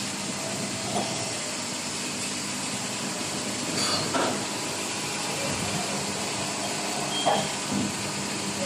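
Injection molding machine running: a steady mechanical hiss, with a few short, louder hisses or knocks scattered through.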